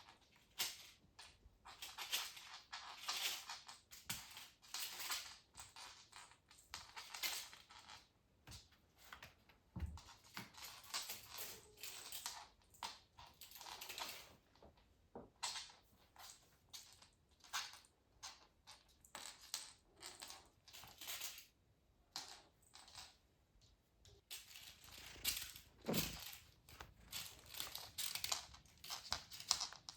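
Crinkly toys rustling and crackling under kittens at play, in quick irregular bursts with brief pauses between.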